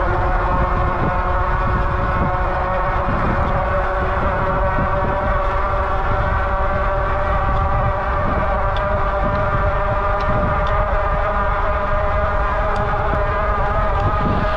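Rad Rover fat-tyre electric bike under way: a steady whine made of several tones, over a low wind rumble on the microphone.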